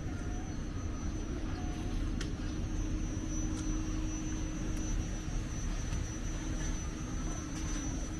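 Steady low rumble with a steady hum and a thin high-pitched whine over it, and a few faint ticks.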